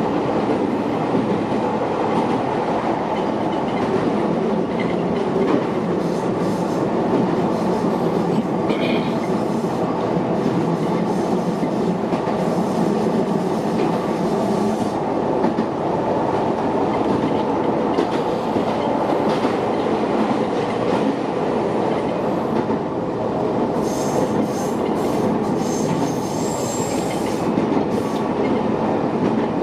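Kobe Electric Railway electric train running on the rails with a steady, even rumble of wheels and running gear. Near the end there are several high-pitched wheel squeals.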